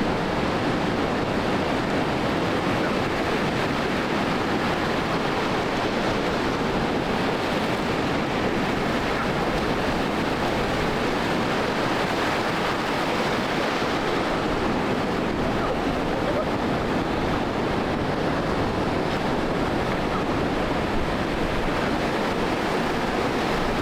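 Steady, even noise of waves breaking on a rough surf beach, with wind buffeting the microphone.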